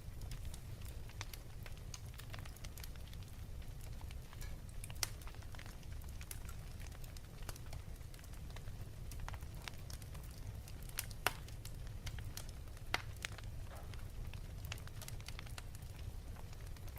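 Fire crackling in a fireplace: a steady low rumble with scattered sharp pops, a few of them louder.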